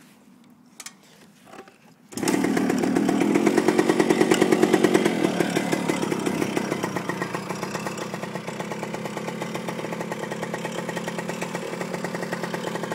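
1975 Kawasaki G5 100's single-cylinder two-stroke engine starting up. It catches about two seconds in, runs fast for a few seconds, then settles into a steady, rapidly pulsing idle.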